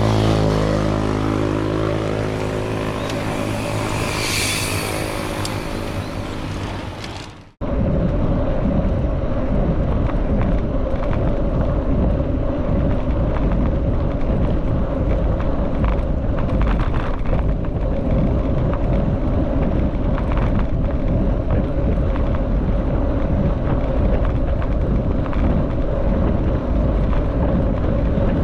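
A motor vehicle engine running close by, its pitch falling slightly. About seven seconds in it cuts off suddenly, and a steady rumbling noise follows, like wind or movement on the microphone.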